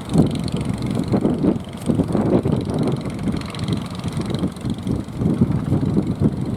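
Strong sea wind buffeting the microphone: a low, gusty rumble that surges and drops irregularly.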